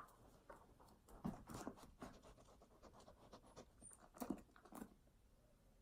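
Near silence with a few faint, irregular soft taps and rustles.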